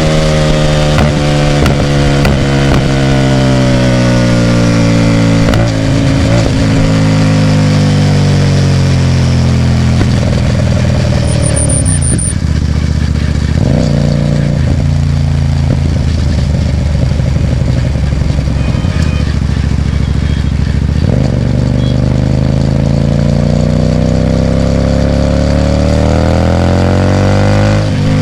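Hyosung GT250R 250 cc V-twin motorcycle with a loud aftermarket Ixxile exhaust, running under way. The engine note falls steadily over about twelve seconds as it slows, stays low and uneven for a while, then climbs again over the last seven seconds as it speeds up.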